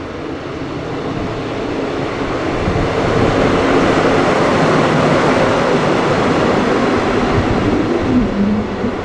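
A train passing at speed: the rush of wheels on rail swells over the first few seconds, stays loud through the middle and eases slightly near the end.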